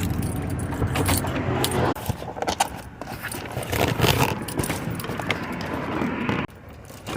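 Metal clinking and rattling: a run of quick clicks and jingles, with a low vehicle hum under the first couple of seconds that then drops away.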